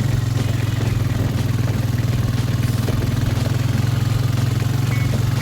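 Farm bike engine running steadily at low speed, a constant drone with fine, even firing pulses.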